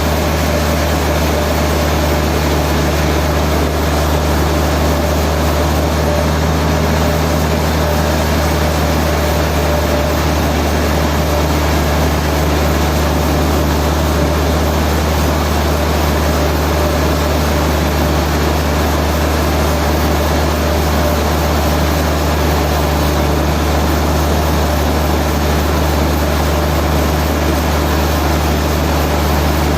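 Heavy machinery running steadily: a constant low drone with a steady higher hum over it, unchanging throughout.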